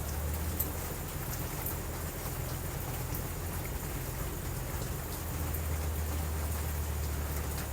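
Steady rain falling, with scattered sharp drop ticks and a low steady rumble underneath.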